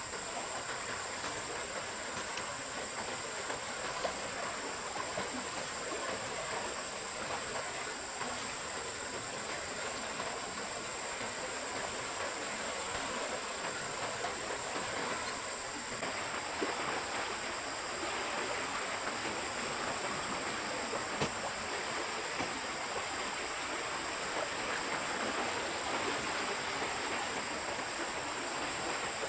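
Forest stream flowing: a steady rush of water with a continuous thin high-pitched whine above it.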